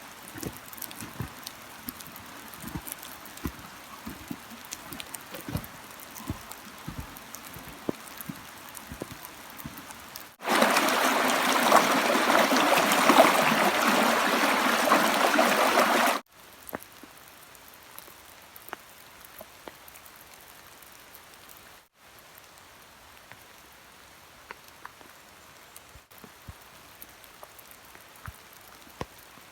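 Rain falling, with individual drops ticking and tapping over a steady patter. About a third of the way in it jumps abruptly to a much louder, dense downpour for about six seconds, then drops back to lighter pattering.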